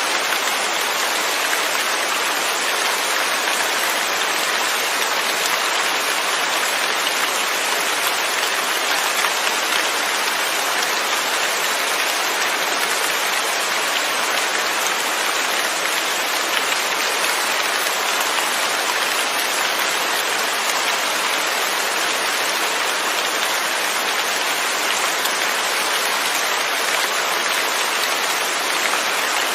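Steady rain falling, a constant even hiss of many drops with no thunder.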